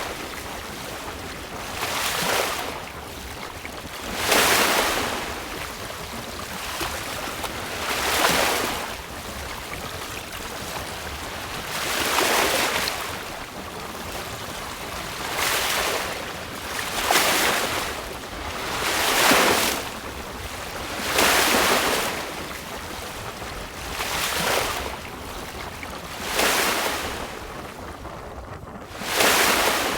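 Choppy sea washing against a sailboat's hull in repeated surges every two to four seconds, over a steady rush of wind on the microphone.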